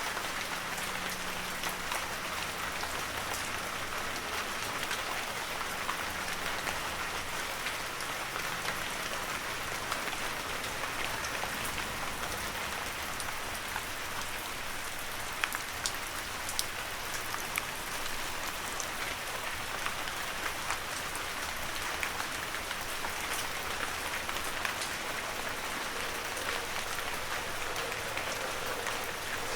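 Heavy rain falling steadily, an even hiss of rainfall with scattered sharper drop hits, a few louder ones about halfway through.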